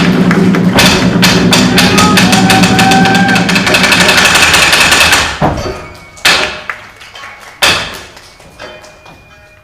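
Traditional Japanese dance accompaniment with fast, dense percussion and a few held high notes over it. About five seconds in the music breaks off, and a couple of single sharp strikes ring out in the pause.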